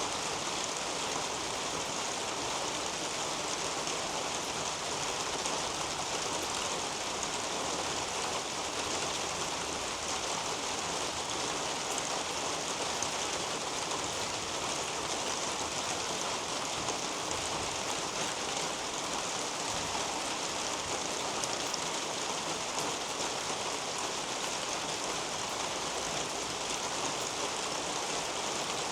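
Steady rain falling on leaves and soil in a garden, a constant even hiss with faint scattered drips.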